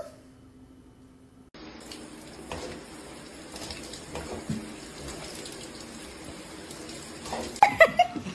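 Water running from a tap in a steady rush, with several short high-pitched cries near the end.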